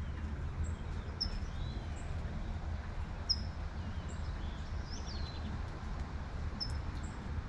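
Light rain falling over a steady low rumble of distant traffic, with a small songbird giving short high chirps every second or so; about five seconds in, one call slides down in pitch.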